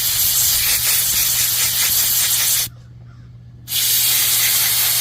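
Compressed-air blow gun hissing as it blows dust out of a forced-air heater's clogged air filter, in two blasts: the first stops about halfway through and the second starts about a second later.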